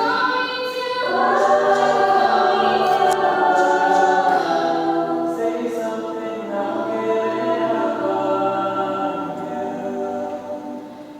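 A group of voices singing together in long held notes, with little or no accompaniment.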